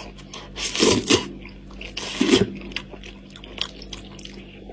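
Close-up eating sounds of a person chewing and biting goat-head meat: wet chewing with small clicks, and two louder bursts about one and two seconds in.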